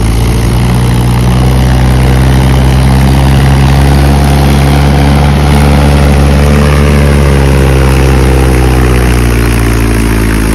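Mahindra 585 XP Plus tractor's diesel engine running loudly and steadily; its pitch rises a little in the middle and eases back down near the end.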